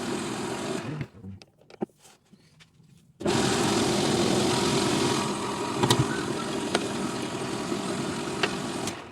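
Metal lathe motor running steadily, stopping about a second in, then starting again about three seconds in and running until near the end. A few clicks and knocks fall in the gap, and a few sharp ticks come while it runs.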